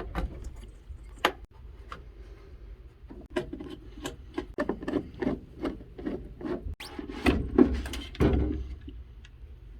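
Hands taking apart a furnace inducer blower assembly: a string of irregular clicks and knocks with rubbing and scraping of parts between them, over a low steady hum.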